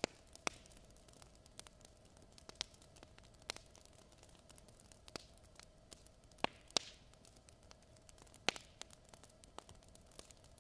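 Fire crackling in a fireplace: faint, irregular sharp pops and snaps, a handful of them louder, over a soft steady hiss.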